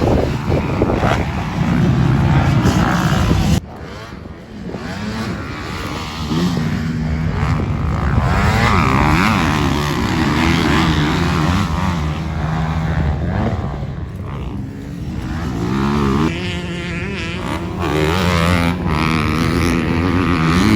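Motocross dirt bike engines revving up and down as the bikes race round the track, with the sound changing abruptly a few seconds in and again later.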